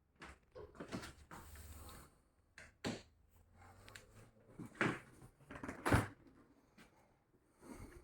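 Fridge-freezer doors and drawers being opened and shut: a series of knocks and thumps, the loudest about six seconds in.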